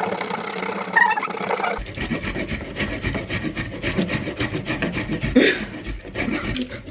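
A steady hiss for about the first two seconds, then rapid, repeated rasping scrapes of vegetables being worked on a hand kitchen tool, several strokes a second.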